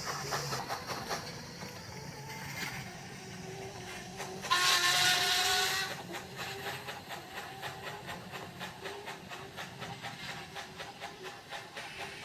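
Model steam locomotive on a 7mm-scale layout running with a steady rhythm of exhaust chuffs and steam hiss. About four and a half seconds in, a loud steam whistle sounds for about a second and a half on one held note.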